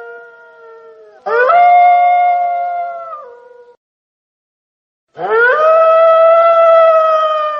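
Wolf howling: the tail of one howl fades out, then two long howls follow, each sweeping quickly up to a steady pitch and holding it. The first drops in pitch as it ends, and a second and a half of complete silence separates them.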